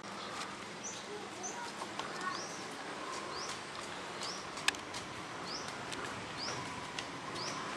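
A bird calling repeatedly with short rising chirps, about one a second, over faint steady background noise; a single sharp click about four and a half seconds in.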